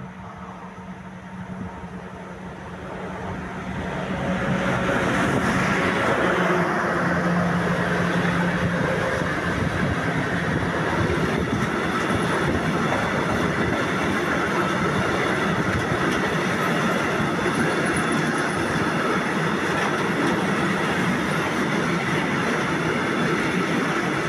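Freight train passing close by: the sound builds over the first five seconds as the locomotive, with a steady hum, draws near and goes by. A long string of covered hopper wagons then rolls past with even, steady wheel-on-rail noise.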